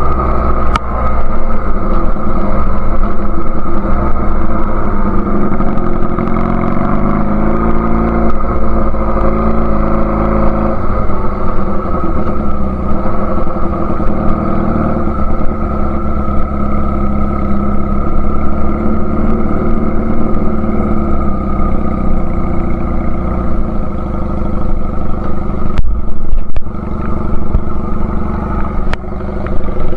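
1999 Honda Rebel CA125 motorcycle running through an aftermarket BSM/Highway Hawk exhaust, its engine note rising and falling with throttle over a steady low rumble.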